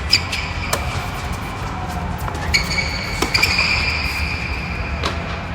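Sharp knocks of tennis balls being struck and bouncing on a court: three close together at the start, then single ones about three and five seconds in. A steady high-pitched tone runs through most of it, under a constant low rumble.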